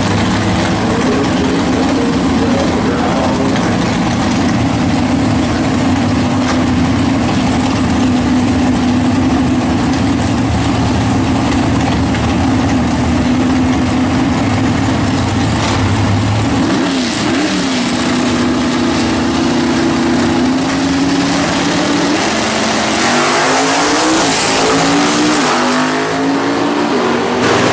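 Two V8 muscle cars, a 1965 Pontiac GTO and a white Chevrolet Camaro, running steadily at the drag-strip starting line. Then, a little past halfway, they launch and accelerate hard down the strip, engine pitch rising again and again through the gears.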